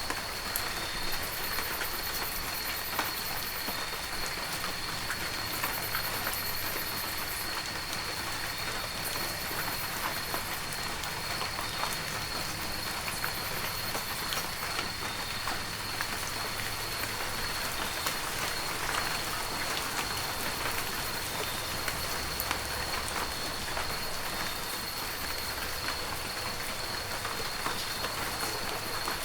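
Heavy rain falling steadily, a dense hiss dotted with the ticks of individual drops striking, with a thin steady high tone under it.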